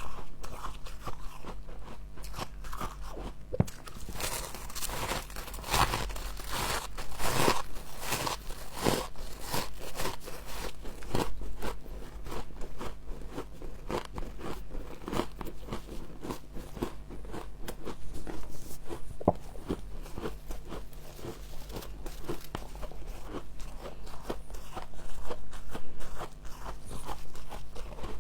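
Frost being bitten and chewed close to the microphone: a rapid run of crisp, crackly crunches, busiest in the first third, over a faint steady hum.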